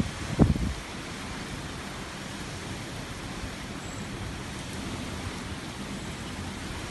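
Steady rushing noise of a desert dust storm, with one brief loud low rumble about half a second in.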